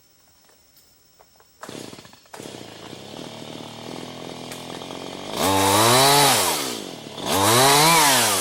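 Gasoline chainsaw starting about a second and a half in, running at a steady idle, then revved up hard twice, its pitch rising and falling with each rev.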